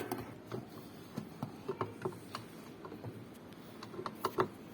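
Scattered light clicks and taps, irregular, with a small cluster near the end: hand tools and metal parts being handled while a washing machine is taken apart.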